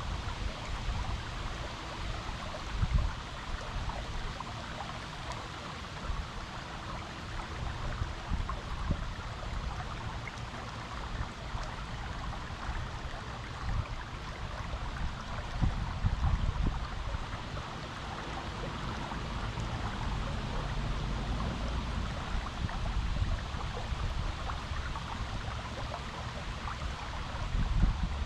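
Stream water running steadily over rocks, with uneven low rumbling swells, the strongest about three seconds in, about sixteen seconds in and near the end.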